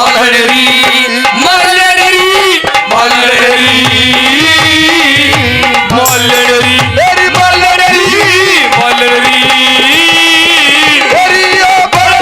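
Instrumental interlude of Haryanvi ragni folk music: a melody instrument playing held notes that step up and down over a steady hand-drum beat.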